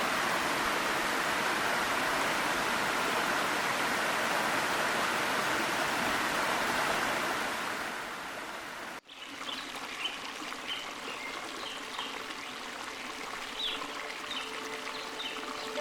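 Stream water rushing steadily. After a sudden cut about 9 seconds in, a quieter running brook with small birds chirping in short, high calls.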